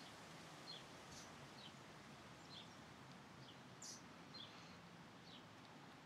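Small birds giving faint, short, high chirps, about eight in irregular succession, over a low steady background hiss.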